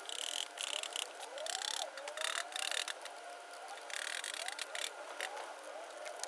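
Metal tool clicking and rattling in four short bursts as a coil-spring compressor is worked on a front suspension strut's spring. A faint wavering tone rises and falls behind it throughout.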